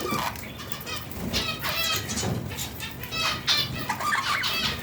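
Budgerigar chicks giving repeated short, raspy begging chirps, several calls a second, typical of chicks being fed soft food.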